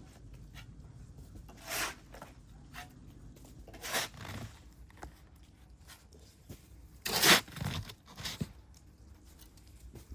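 A few separate short scraping, crunching noises, the loudest pair about seven seconds in, over a faint low background rumble.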